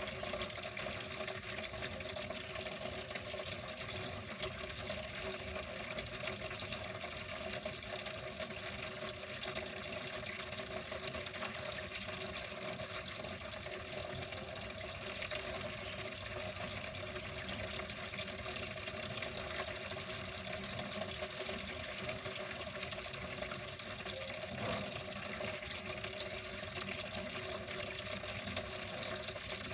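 Water flowing steadily, an even, unbroken stream.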